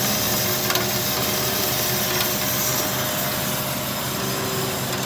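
Cosen C-4038NC horizontal bandsaw running after repair, with its drive shaft, bearings and belts newly replaced: a steady mechanical hum with a thin constant tone that fades out about four seconds in.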